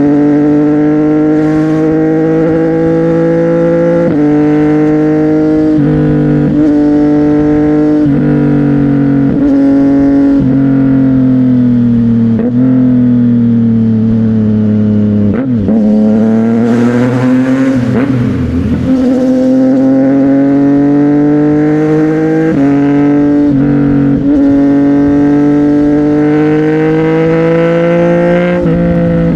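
CFMOTO 675NK's three-cylinder engine, heard through a Burnout titanium exhaust, pulling through the gears. The note climbs and breaks at each shift, sinks for a few seconds around the middle with a rush of noise, then climbs and shifts again.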